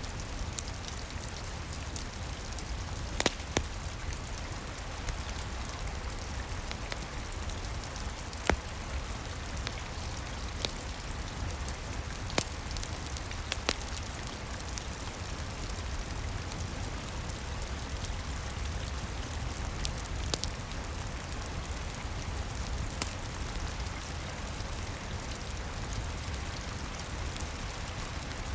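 Steady rain hiss with a low rumble underneath, broken by occasional sharp pops and crackles of a wood fire burning in a fireplace.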